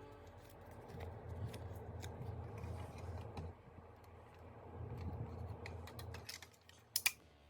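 Plastic toy parts being handled, with scattered light clicks and two sharp snaps about seven seconds in.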